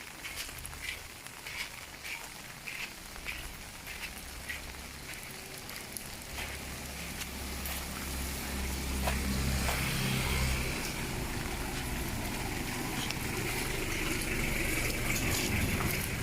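A motor vehicle's engine coming closer, its low drone growing louder from about six seconds in, over a steady hiss of rain.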